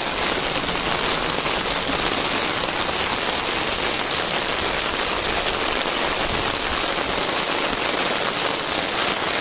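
Steady rain falling on a flooded field and its standing water, an even hiss without a break.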